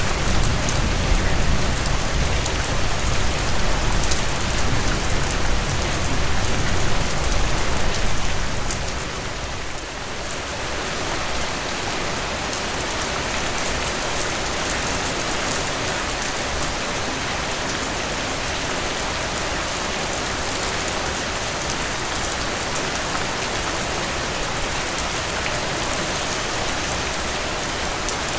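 Steady rainfall, an even hiss of drops falling on surfaces. A deep low rumble sits under it for the first eight seconds or so and fades out about nine seconds in, leaving the plain rain sound.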